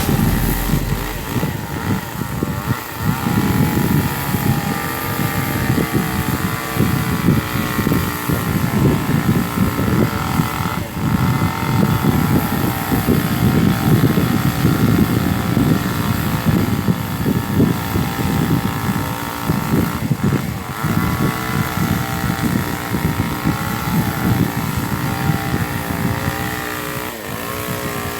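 A small engine running steadily under a rush of wind or air noise, its pitch shifting near the end.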